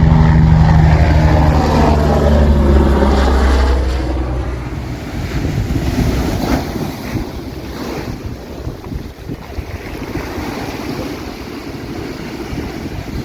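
A landing airliner passing low overhead, its loud engine drone sweeping in pitch as it goes by and fading over the first four seconds or so. After that, wind buffets the microphone over the surf.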